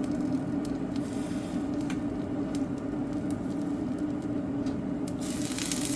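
Electric kettle heating water, a steady low rumbling noise, with a few faint light clicks over it. Near the end a brighter hiss comes in.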